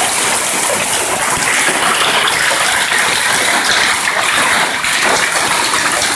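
Hailstorm: hail and heavy rain falling hard, a loud, steady, dense rush of noise.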